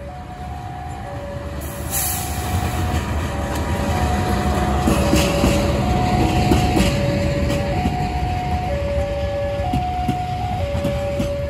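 A passenger train hauled by a CC 206 diesel-electric locomotive passes close by, the engine and rolling wheels rumbling louder about two seconds in and staying loud as the coaches go by. Throughout, a two-tone alarm alternates steadily between a higher and a lower note, as a level-crossing warning signal does.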